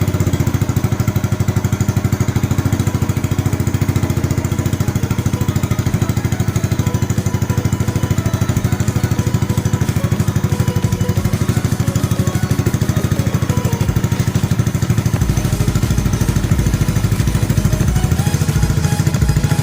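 Yamaha Jupiter motorcycle's single-cylinder four-stroke engine running steadily through a Honda Karisma exhaust muffler fitted in place of its own, an even, fast putter with no revving. Its low rumble grows stronger about three-quarters of the way through.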